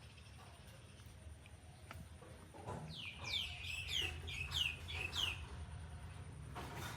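A bird calling a quick run of about eight high notes, each sweeping downward, about three a second. A steady low hum runs under it.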